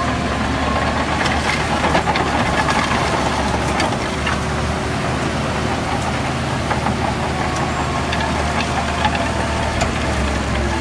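Heavy diesel earthmoving machine engine running steadily, with scattered short metallic clanks.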